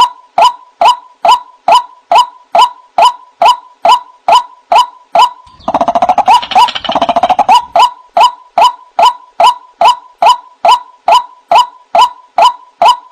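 White-breasted waterhen (ruak-ruak) calls played as a bird-lure recording: one sharp note repeated about twice a second at an even pace. About six seconds in, a faster, overlapping run of calls joins in for a second and a half, then the steady repeats carry on.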